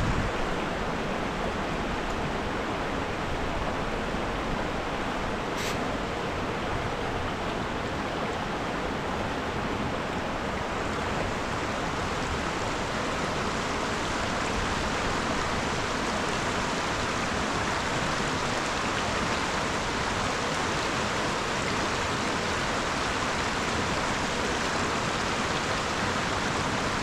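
River water rushing steadily, with one faint click about six seconds in.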